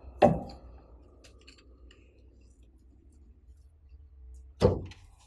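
Two sharp clicks, about four seconds apart, from hand work on car parts as connectors and lines are taken off, with faint handling noise between them over a low steady hum.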